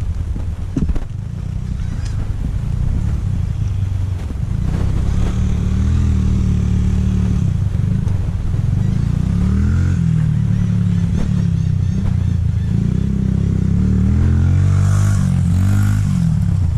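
Honda CRF dirt bike's single-cylinder four-stroke engine under way, revving up and dropping back over and over as the rider works the throttle and gears.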